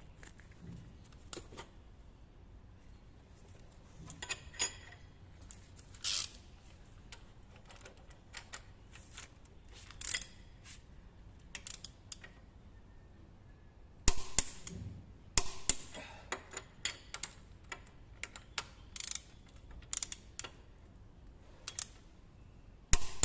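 Irregular metallic clicks, clinks and clacks of hand tools and engine parts being handled, with a few sharper knocks about 14 and 15 seconds in and just before the end.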